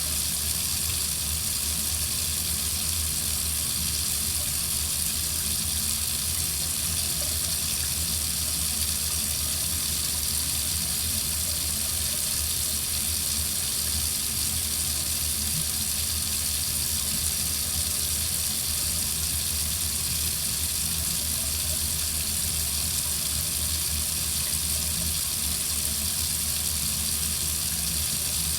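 Water running steadily from a tap, an even hiss that does not change.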